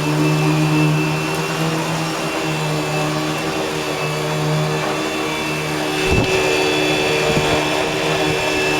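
Eureka Boss Smartvac 4870 upright vacuum running steadily, a constant motor hum with a high whine over it. A brief low thump comes about six seconds in.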